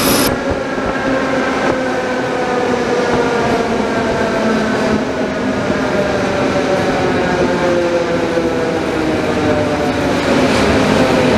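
Electric commuter train braking into a station, heard from on board: a whine of several tones falls steadily in pitch as it slows, over the rumble of the wheels. A high wheel squeal cuts off just at the start.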